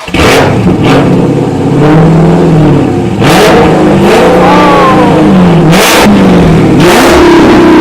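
Car engine with its mid muffler deleted, revved up and let fall back again and again, about five revs. Several sharp cracks come through between them.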